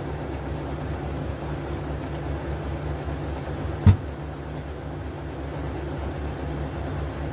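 A steady low hum with several fixed low pitches, like a running motor, and one short loud thump about four seconds in.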